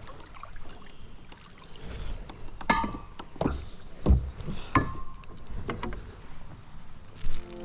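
Several sharp knocks and low thumps on a kayak, with brief splashy hisses, as a hooked fish is landed and handled aboard.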